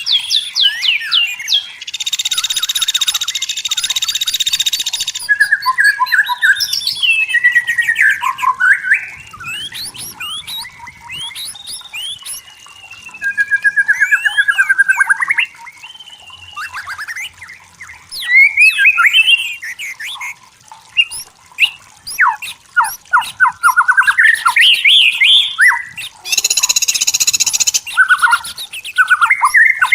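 White-rumped shama singing a continuous, varied song of clear whistles, rapid trills and fast runs of notes. Two harsh buzzing passages of a few seconds each come near the start and near the end.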